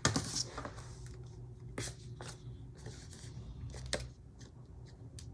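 Scissors cutting paper: a rustle of paper at the start, then a few sharp separate snips spread irregularly.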